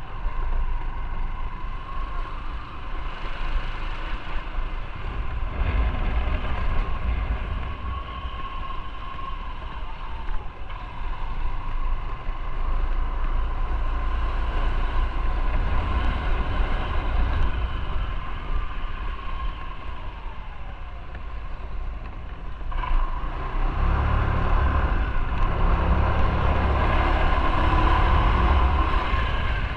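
Motorcycle on the move: its engine running under heavy wind noise on the microphone, with a steady whine near the middle of the range. It grows louder near the end.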